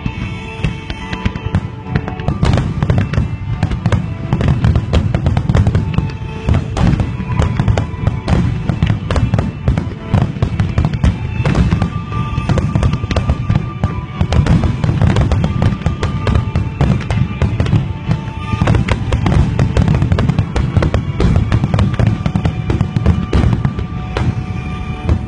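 A dense barrage of aerial firework shells bursting in rapid succession. About two seconds in it thickens into nearly continuous overlapping bangs.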